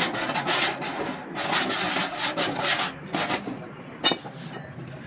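Rhythmic back-and-forth rasping strokes of hand abrading work on a dented car door panel, about two strokes a second. The strokes stop about three and a half seconds in, and a single sharp click follows.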